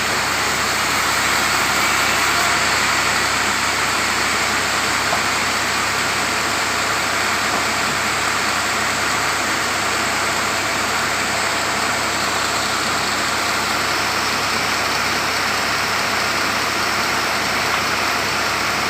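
Sawmill machinery running steadily, a constant mechanical noise with no breaks or changes.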